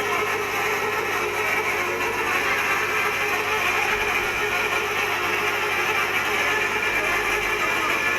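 Steady drone of running machinery with a constant hum, unchanging throughout.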